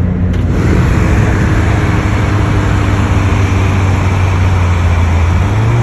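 Car engine running at steady revs under a wash of road and wind noise; the engine note steps up slightly near the end.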